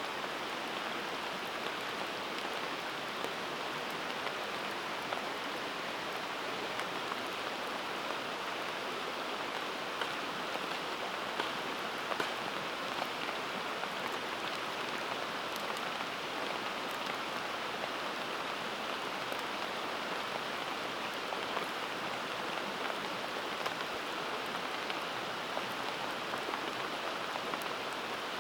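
Campfire burning: a steady hiss with small crackles and pops scattered through it.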